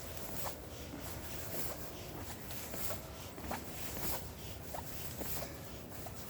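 Footsteps walking at an even pace on a forest trail in autumn, about two steps a second.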